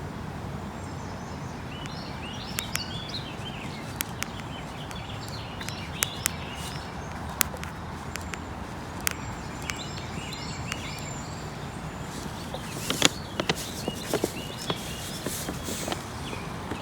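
Outdoor ambience: birds chirping on and off over a steady low background noise, with scattered sharp clicks and taps that come thicker about thirteen to sixteen seconds in.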